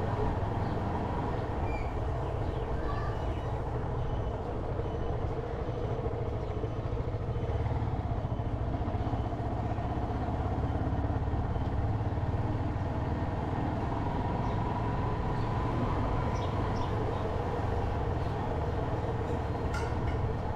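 Motorcycle riding along a street: steady engine and road noise that stays even throughout.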